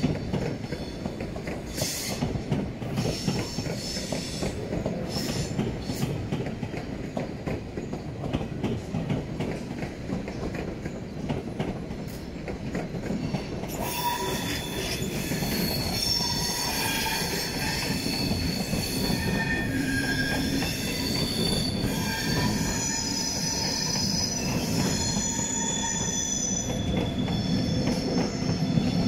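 Double-deck passenger trains rolling slowly over the points and crossovers, a low rumble of wheels on rail with scattered clicks. From about halfway, high wheel squeal starts in several overlapping tones that come and go as wheels grind through the curves.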